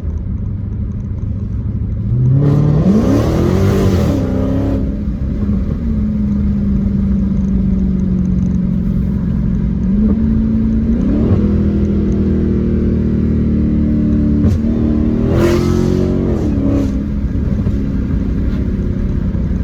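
2016 Dodge Challenger Hellcat's supercharged 6.2-litre V8 with its mid mufflers deleted, driving: the exhaust note rises as it accelerates about two seconds in, settles to a steady cruise, then pulls up twice more, the last pull dropping back in pitch just after.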